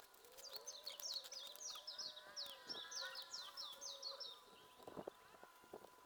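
Birds singing: a rapid run of high chirps, about five a second, with softer warbling underneath. It stops about two-thirds of the way through.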